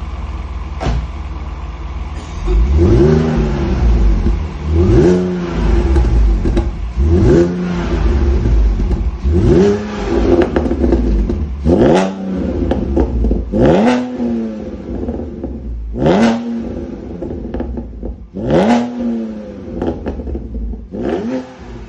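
BMW Z4 engine through its valve-controlled (flap) exhaust, idling and then blipped repeatedly, each rev rising and falling in pitch, about every two seconds.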